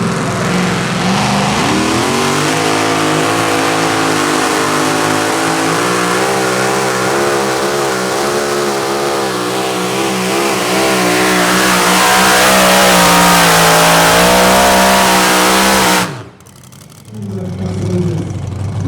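V8 engine of a two-wheel-drive pulling tractor running hard under load, its pitch wavering up and down and getting louder toward the end. It cuts off abruptly about sixteen seconds in, and a quieter low engine sound follows.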